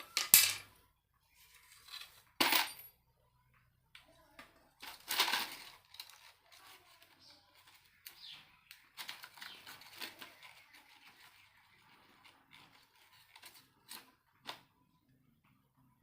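A few sharp clinks and knocks of small hard objects, with quieter rattling and rustling between them.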